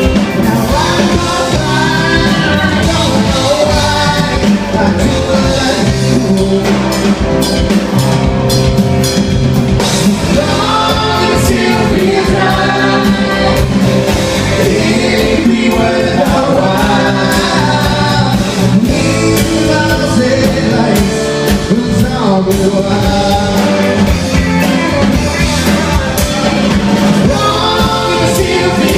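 A rock band playing live, with drums, a steady beat and sung vocals.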